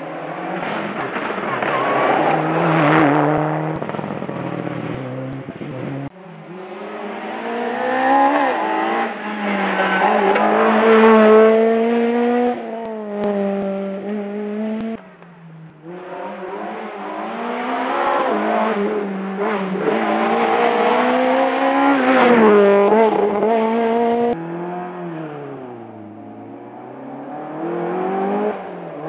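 Rally cars driven hard on a stage, their engines revving high and dropping back again and again through gear changes as they go past. The sound is split into several separate passes by abrupt cuts.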